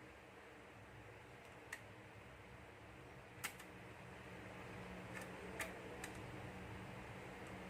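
Quiet room tone with about six faint, sharp clicks spaced irregularly, the small clicks of a phone and tools being handled during repair.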